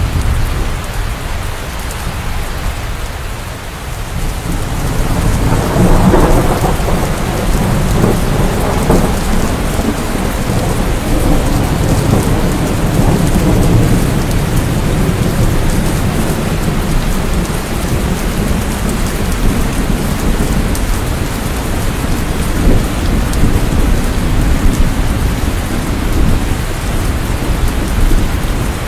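Steady heavy rainfall with thunder rumbling low beneath it; a rolling peal swells about five seconds in and keeps rumbling on under the rain.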